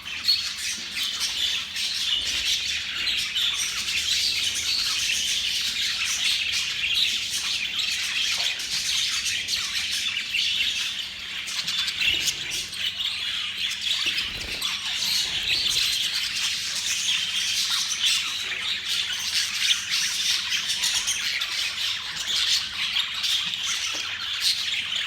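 A flock of budgerigars chattering and squawking, a dense, continuous mass of high chirps and warbles.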